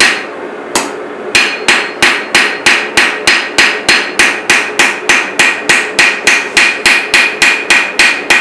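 Blacksmith's hand hammer forging a chef's knife blade on an anvil, each blow ringing. Two blows, then after a short pause a steady run of blows at about three a second.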